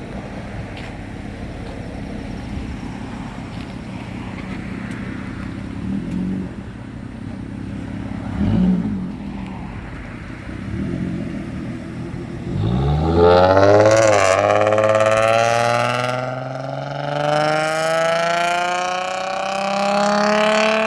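A car engine idling with a few short throttle blips, then about twelve seconds in a car pulls away hard, its engine note climbing steadily through the revs and dropping near the end as the driver shifts or lifts off.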